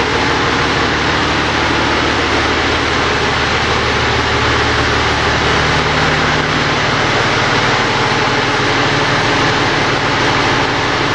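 Fire engine's diesel engine idling steadily, heard up close; its low drone shifts about halfway through.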